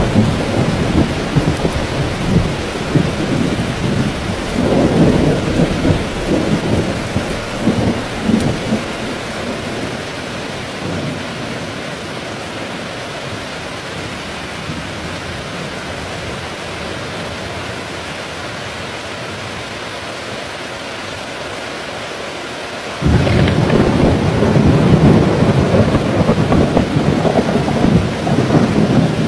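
Heavy rain falling steadily, with thunder rumbling that fades out over the first ten seconds or so, leaving only the rain. About three-quarters of the way through a loud thunderclap starts suddenly and rolls on to the end.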